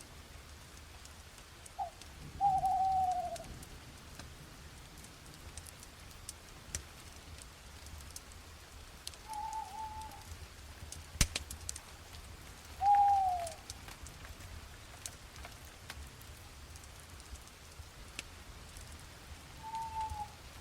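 A bird calling four times in short falling calls, spaced several seconds apart, over a bed of scattered faint ticks and crackles with one sharp click about halfway through, and a low steady rumble.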